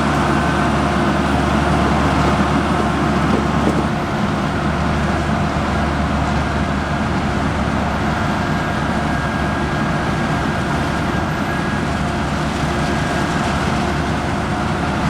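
Heavy diesel farm machinery running steadily under load: a deep engine drone with a faint steady whine over it. The sound drops slightly about four seconds in.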